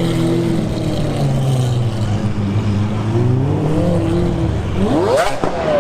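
An exotic sports car's engine running, its revs rising and falling twice, then a quick hard rev climbing steeply in pitch about five seconds in, with a short sharp crack near the end.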